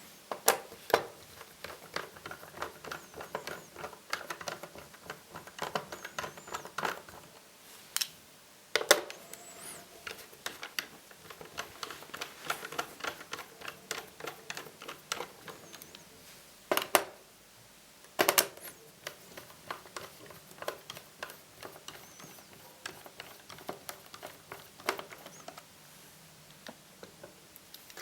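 Hands and tools working on an opened Acer Aspire 5732ZG laptop while its screws are removed: a steady stream of small irregular clicks, ticks and taps from a screwdriver, screws and plastic parts, with a few louder sharp knocks.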